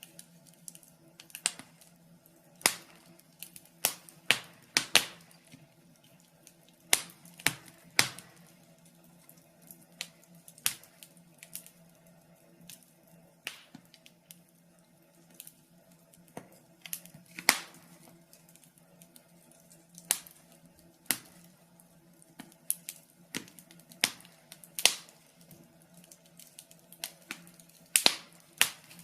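Wood fire crackling in a fireplace: irregular sharp snaps and pops, some much louder than others, over a faint steady hum.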